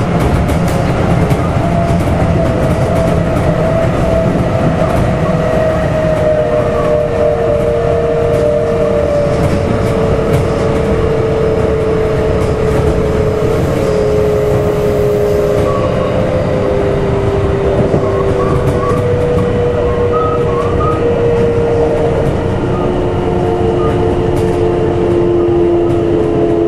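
Cabin running sound of a Kintetsu 1253 series electric train: a steady rumble of wheels on rail under the traction motors' whine, which falls slowly in pitch as the train slows.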